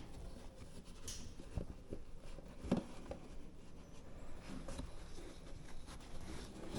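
Faint handling noise with a few light knocks and clicks, one sharper knock a little under three seconds in.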